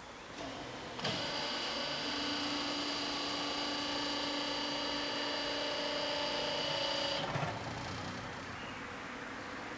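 Level crossing equipment starting up: a steady, many-toned electric whine for about six seconds that stops abruptly with a click.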